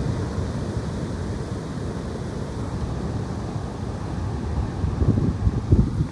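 Strong gusty wind buffeting the microphone: a low, rumbling roar of noise that swells in a few harder gusts near the end.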